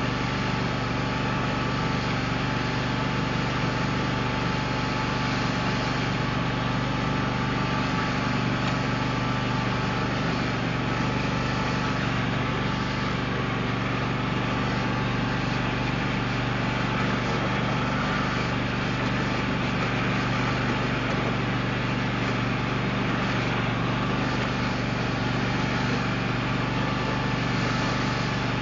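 Riding lawn mower's 24-horsepower Kawasaki V-twin engine running at a steady speed, an even hum with no revving.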